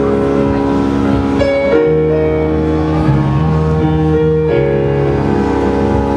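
Piano-led rock band playing live, an instrumental passage of held piano chords changing every second or two over the band.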